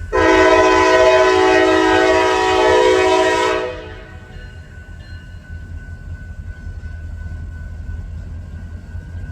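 Diesel locomotive air horn sounding one long blast of several tones together, lasting about three and a half seconds before fading out. The train's low rumble runs on underneath and after it.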